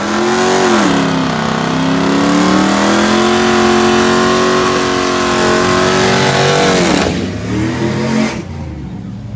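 Drag-racing truck's engine at full throttle. The pitch dips about a second in, then holds high and fairly steady, and the engine is cut off about seven seconds in, followed by one short rev.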